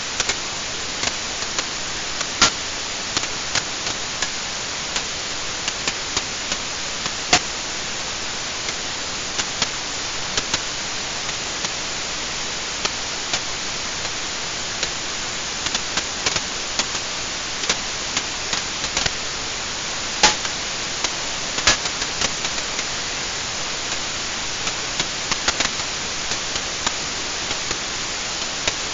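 Wood fire burning in a fireplace, crackling and popping at irregular moments over a steady hiss, with a few louder pops.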